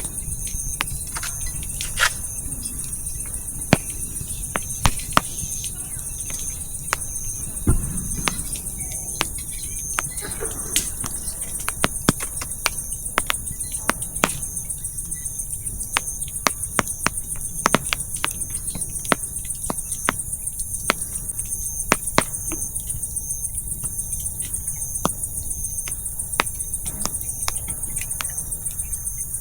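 Burning firewood crackling and popping in irregular sharp snaps, with a louder low knock about eight seconds in, over steady chirping of insects.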